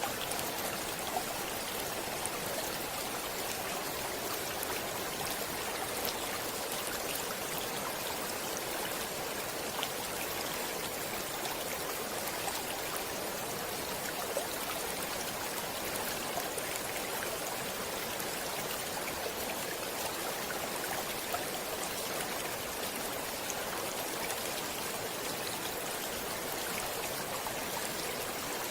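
Stream water flowing steadily over rocks, an even rushing with small splashes and droplet ticks scattered through it.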